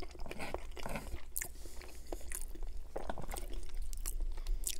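Close-miked chewing of a mouthful of macaroni and cheese, with irregular wet mouth clicks and smacks.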